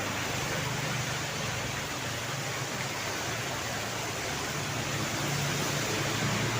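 Steady rainfall, an even unbroken hiss, with a low hum underneath.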